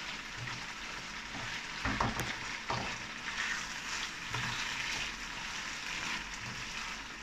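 Beef and purslane greens sizzling steadily as they are stir-fried in a non-stick wok, the spatula scraping through them and knocking against the pan twice about two seconds in.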